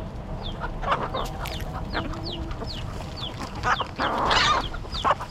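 A flock of free-roaming chickens: hens clucking and chicks peeping in rapid, repeated short falling chirps, with a brief louder rush of noise about four seconds in as the birds jostle and squabble over food.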